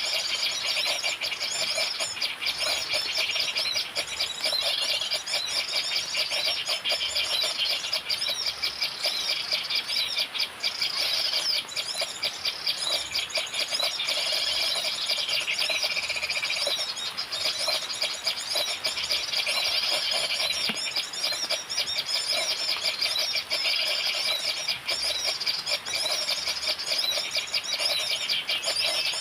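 Bird chirping: a rapid, unbroken stream of high-pitched notes at a steady level.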